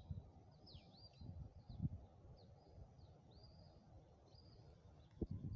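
Faint birdsong: a small bird giving short, high chirps, about two a second, some rising and falling in pitch. A low, uneven rumble runs underneath.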